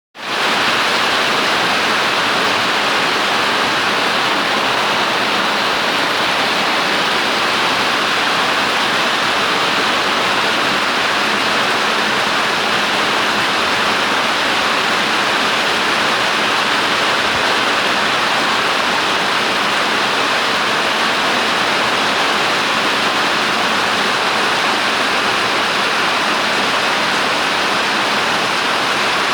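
Heavy rain falling steadily: a dense, even hiss of rainfall with no single drops or other sounds standing out.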